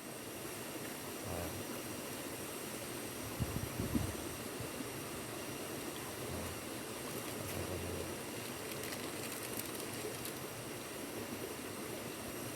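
A pot of fish broth boiling, giving a steady hiss, with a few low knocks about three and a half seconds in.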